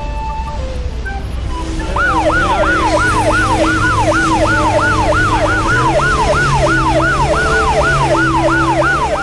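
Cartoon siren sound effect starting about two seconds in, its pitch sweeping up and down about three times a second, over quiet background music.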